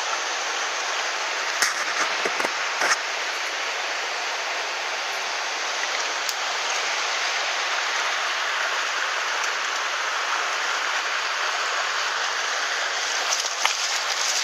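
Mountain stream running over rocks, a steady rush of water, with a few sharp clicks a couple of seconds in and again near the end.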